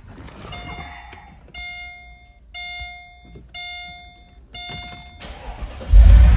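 Dashboard warning chime of a 2003 Mercedes-Benz SL55 AMG sounding five times, about once a second, with the ignition on. Near the end the supercharged 5.4-litre V8 starts from cold with a sudden loud rumble and keeps running.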